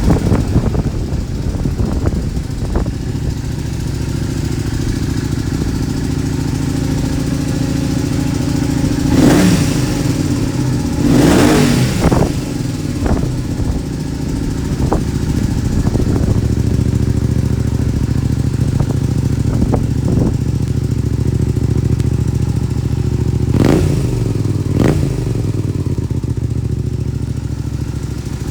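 Honda VTR250 V-twin engine idling through a center-up exhaust, with a series of throttle blips: two sharp revs about a third of the way in, a few small ones after, and two more near the end.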